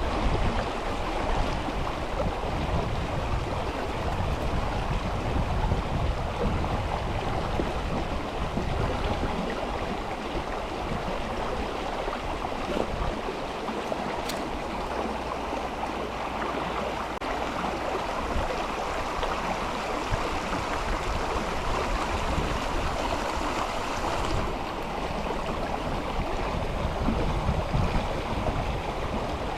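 River water rushing and flowing in a steady, unbroken stream.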